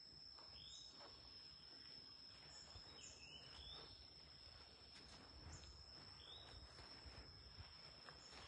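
Faint outdoor ambience: a steady high insect drone, with a bird repeating a short call every two to three seconds.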